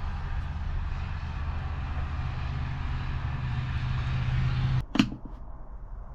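Cordless drill-driver motor running steadily for almost five seconds, then cutting off abruptly, followed by a single sharp click.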